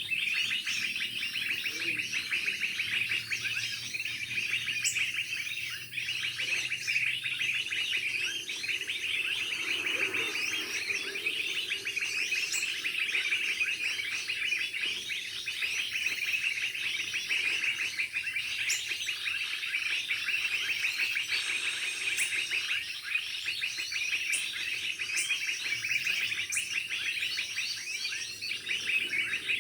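Small birds chirping continuously in a dense run of rapid high chirps, with scattered sharper, higher notes on top.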